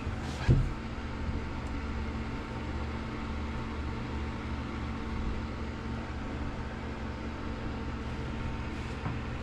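Steady low machinery hum with a faint higher tone in it, and a single light knock about half a second in.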